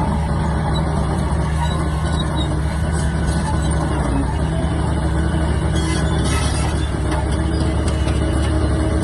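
Shantui DH17-C3 crawler bulldozer's diesel engine running steadily at a constant pitch, with a brief higher rattle about six seconds in.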